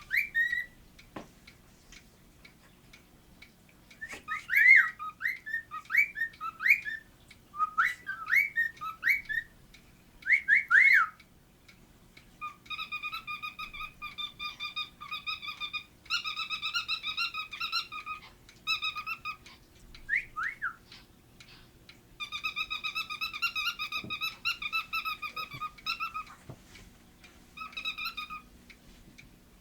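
Pet cockatiel whistling: quick rising and falling whistled notes in short phrases, then long runs of fast, buzzy, warbling chatter broken by brief pauses.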